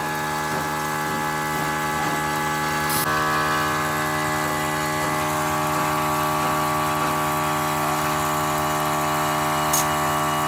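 A motor-driven workshop machine running steadily with an even, many-toned hum; its tone changes slightly about three seconds in, and there are two faint clicks.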